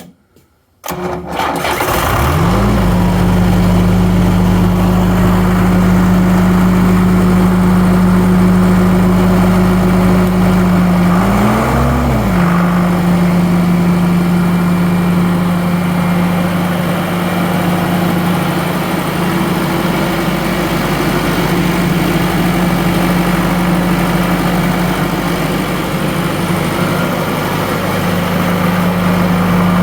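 Grimmer Schmidt 185 portable air compressor's engine starting about a second in, speeding up to a steady run, with a brief rise and fall in engine speed around twelve seconds in. It is the first start after the compressor was rebuilt following a separator fire.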